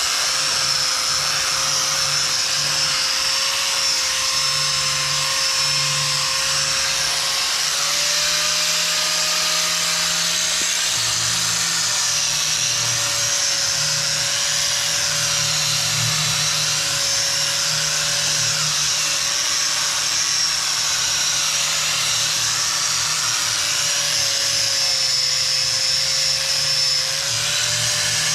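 Electric power tool motor running continuously under load, a steady whine whose pitch dips and rises slightly.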